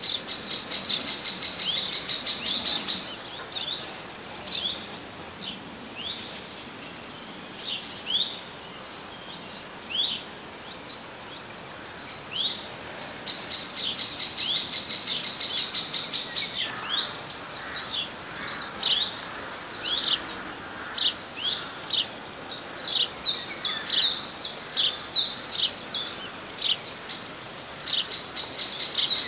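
Small songbirds calling: many short, sharp chirps with stretches of a rapid, high trill, the chirps coming thick and fast in the last few seconds, over a faint steady background hiss.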